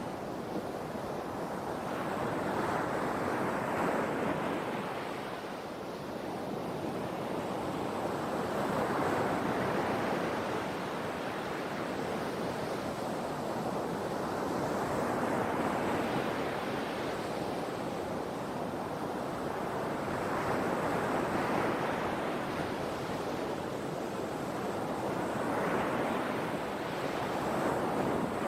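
Sea waves breaking and washing in, the surf swelling and fading every five or six seconds.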